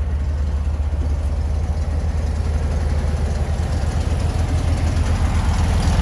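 A car engine idling with a steady low, pulsing rumble that grows a little louder near the end.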